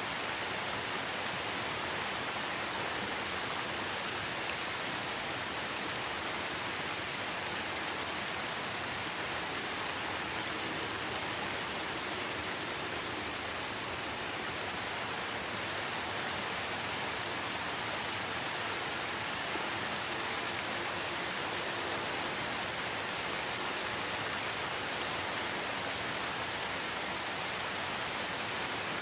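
Steady, even rainfall: a dense hiss of rain with faint scattered drop ticks.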